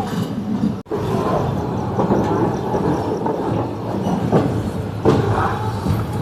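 Passenger train running along the track, a steady rumble with wheels clacking irregularly over rail joints. The sound cuts out abruptly for an instant just under a second in.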